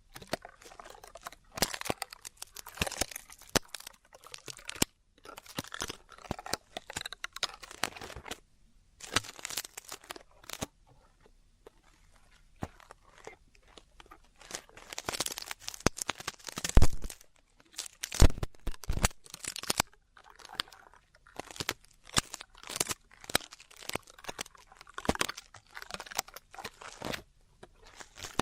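Ear-cleaning ASMR: an ear pick scraping and rubbing inside a microphone's ear, close-up crackly scratching that comes in irregular bursts. It goes quieter for a few seconds near the middle, and is followed by a few heavier bumps.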